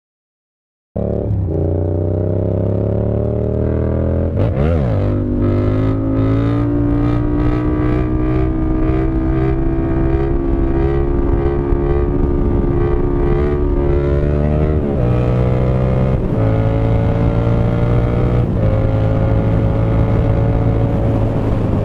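Yamaha MT-07's parallel-twin engine through an unbaffled SC Project CRT full exhaust system, running loud while riding. Its pitch climbs slowly, with brief breaks about five, fifteen, sixteen and nineteen seconds in, as at gear changes or throttle shifts.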